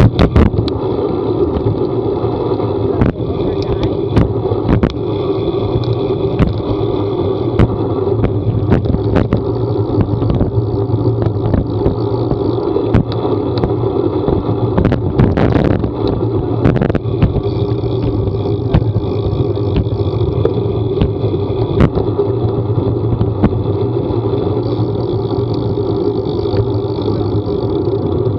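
A vehicle on the move, its engine a steady drone that holds the same pitch throughout, with scattered sharp ticks and knocks and a brief cluster of louder ones a little past the middle.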